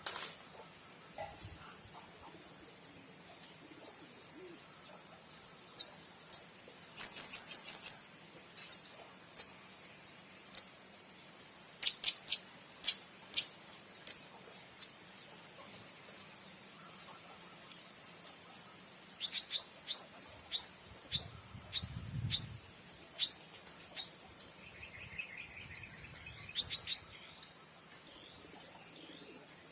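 Blue-crowned hanging parrots giving short, sharp, high-pitched calls in scattered runs, with a fast trill about seven seconds in the loudest. Insects buzz steadily and high underneath throughout.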